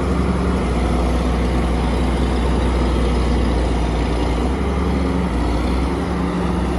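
Heavy diesel engine of earthmoving machinery running steadily with a deep drone.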